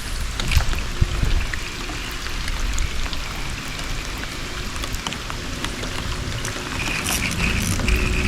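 Rain falling on the water and the kayak: a steady patter with scattered sharp drips. A thin steady whirr comes in about seven seconds in.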